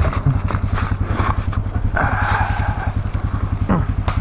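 A small engine running at a steady idle, with a rapid, even chugging pulse.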